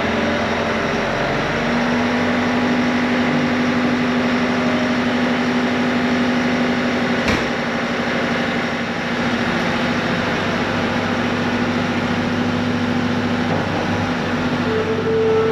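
Bobcat T66 compact track loader's diesel engine running steadily with a constant hum, a single sharp click about seven seconds in, and a higher steady tone joining near the end.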